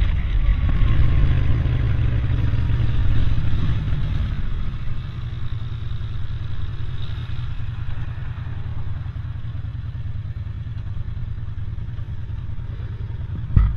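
Road traffic noise with a motor vehicle passing, loudest in the first few seconds and then easing off, under steady low rumble. A single sharp knock comes near the end.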